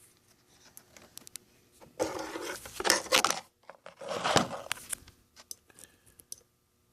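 Handling noise of a voltmeter and its leads being set on a car battery's terminals: rustling and scraping in three short bursts, with scattered light clicks.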